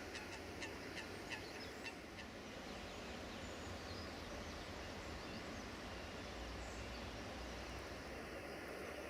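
Waterfowl on a lake giving a quick run of short, sharp calls over the first two seconds, then falling quiet over a steady background rush.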